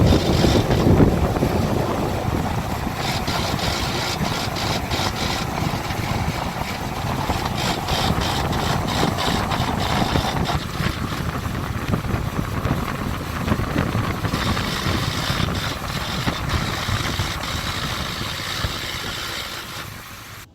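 2004 GMC Yukon XL being driven: steady engine and road noise, with a run of light ticks between about 3 and 10 seconds in.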